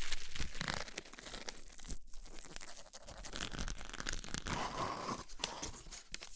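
Close-miked crunching and crinkling: a dense run of small crackles, with a short pause about two seconds in.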